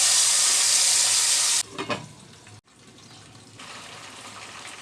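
Marinated chicken pieces sizzling loudly in hot soybean oil in a frying pan, the hiss dropping off suddenly about one and a half seconds in. After a brief clatter, a quieter steady sizzle comes back near the end.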